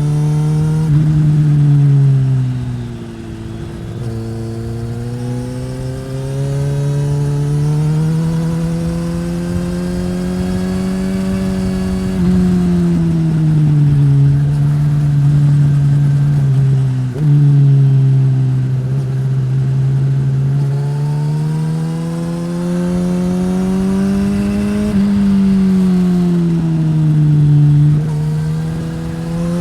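2015 Suzuki GSX-S1000 inline-four running through a Yoshimura R-11 slip-on exhaust, under way on a winding road. The engine pitch climbs as the rider accelerates and sinks as he eases off. There are a few sudden jumps in pitch from gear changes, one about a second in and others around the middle and near the end.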